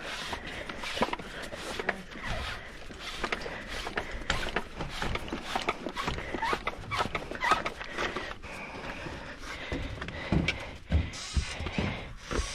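A run of clicks, knocks and scrapes from a tankless water heater's vent pipe being handled and pushed through its collar in the wall hole.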